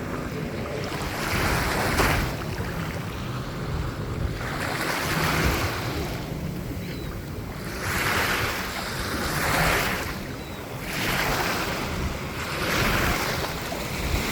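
Small waves washing in shallow water: a soft rush that swells and fades every couple of seconds, with wind rumbling on the microphone.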